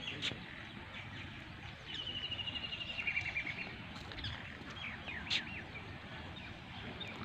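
Birds calling outdoors: a rapid trill of evenly repeated high notes lasting about a second and a half, then scattered short chirps, over a steady low background rumble with a few sharp clicks.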